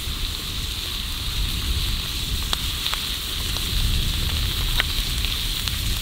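Ribeye steak and melting butter sizzling on a cast-iron griddle over a wood fire: a steady frying hiss with a few sharp crackles.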